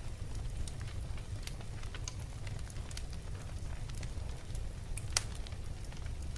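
Wood fire burning in a fireplace, crackling with scattered irregular pops, one sharper pop about five seconds in, over a low steady rumble.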